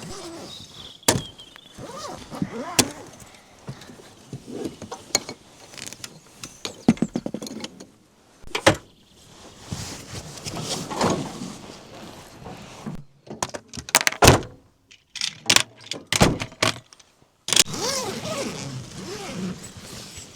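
Repeated thunks, knocks and light metallic rattles of folding camp chairs and a camp table being carried and set up, with a few short vocal sounds in between.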